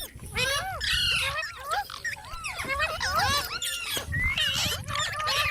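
Parrot calling in a quick, continuous run of short chirps and squawks, each rising and falling in pitch.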